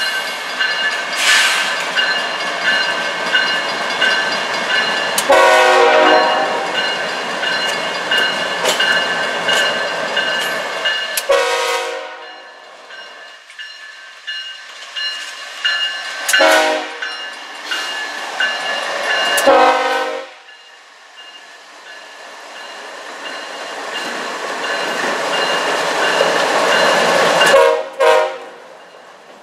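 CSX diesel-electric freight locomotives passing close by with engines running and wheels rolling on the rails, the lead unit sounding its air horn in about five blasts for a grade crossing.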